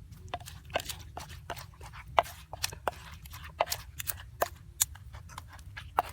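A run of sharp, irregular knocks and clicks, about two or three a second, over a low steady hum.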